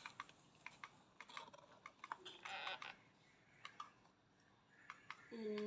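Faint, irregular light clicks and taps, a few per second, with a short pitched voice-like sound near the end.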